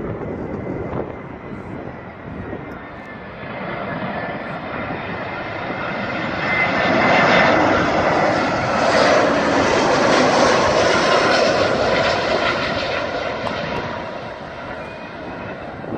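A landing airliner passing close on final approach: its engines grow louder over several seconds, hold loudest for several seconds in the middle, then fade away.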